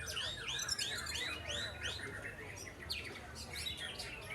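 Several caged songbirds singing over one another, with a quick run of arching whistled notes about a second in.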